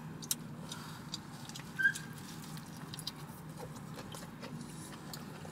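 Close mouth sounds of someone chewing a bite of fried chicken sandwich: soft, irregular wet clicks and smacks, with one short squeak about two seconds in, over a low steady hum.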